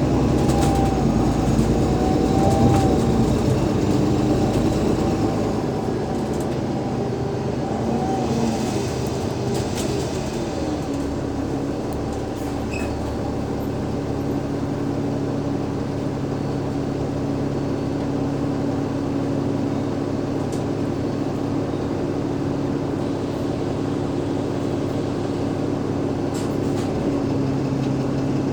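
Cummins ISL8.9 diesel engine of an Alexander Dennis Enviro500 MMC double-deck bus, heard from on board. Its note shifts and wavers for about the first ten seconds, then holds a steady hum, changing again near the end.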